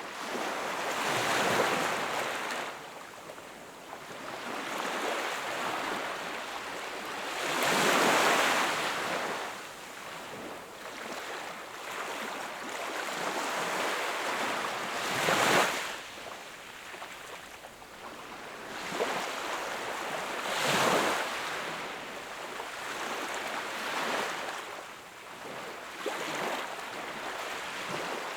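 Ocean waves breaking on the shore, a wash of surf that swells and falls every five to seven seconds, each wave peaking then receding.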